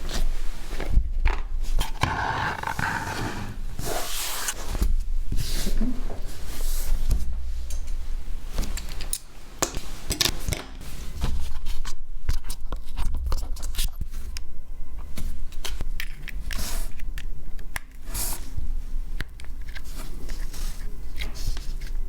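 Small tools scraping and clicking against a Samsung Galaxy S10e as it is worked on by hand: irregular taps, scrapes and handling noise, with a denser scraping stretch about two seconds in, over a low steady hum.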